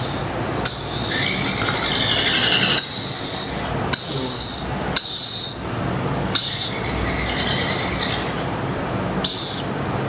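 Red-collared lorikeet chick giving about seven high-pitched begging calls while being hand-fed from a syringe: it is asking for food.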